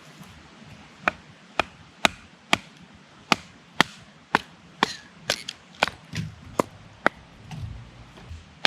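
Wood being chopped with an axe: sharp, even strikes about two a second, starting about a second in.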